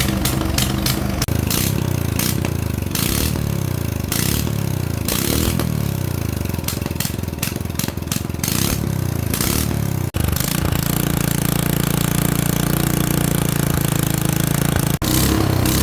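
Small gasoline engine from farm machinery running. Its speed repeatedly swings up and falls back over the first ten seconds, then it runs steadily from about ten seconds in.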